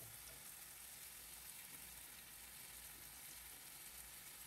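Faint, steady sizzle of egg and vegetables stir-frying in a wok.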